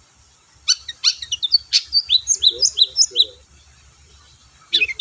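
Long-tailed shrike (cendet) singing: a quick run of sharp, chattering notes lasting about two and a half seconds, a pause, then another run starting near the end.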